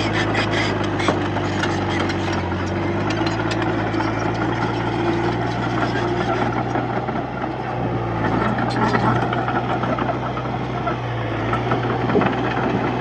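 Bulldozer diesel engine running steadily, a constant low drone. Runs of rattling clicks come through in the first few seconds and again about eight seconds in.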